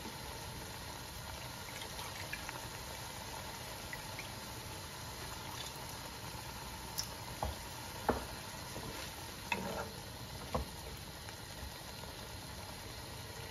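Green masala paste frying in oil in a pot with a faint, steady sizzle, as the paste cooks down until the oil separates. A few light knocks and scrapes come near the middle as the wooden spatula and a bowl touch the pot.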